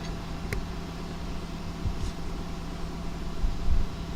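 A steady low machine hum over a low rumble, with a single sharp click about half a second in.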